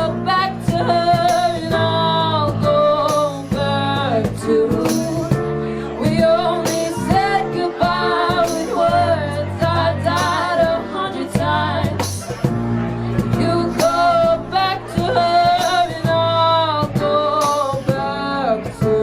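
A live band playing, with a wavering sung melody over bass and regular drum hits.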